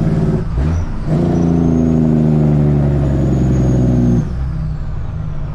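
Caterpillar C-15 diesel engine of a Kenworth truck running loud and steady under load. The engine note breaks off briefly about half a second in and comes back. About four seconds in it drops away to a quieter, lower note.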